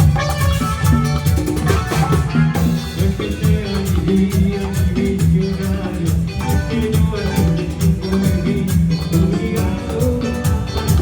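A live band playing Latin dance music, salsa-like, with a steady beat of percussion and a strong bass line.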